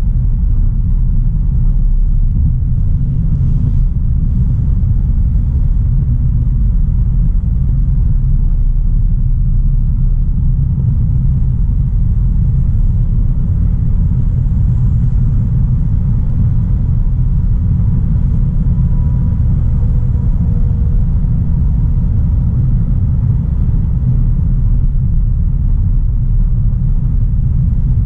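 2016 Audi A3 Sportback's 1.4 TFSI turbocharged four-cylinder petrol car on the move at a steady pace: a steady low rumble of engine and road noise, with no shifts or sudden changes.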